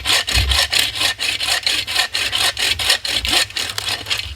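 Folding hand saw cutting through a resinous dead spruce branch, quick back-and-forth strokes about four to five a second; the sawing stops near the end.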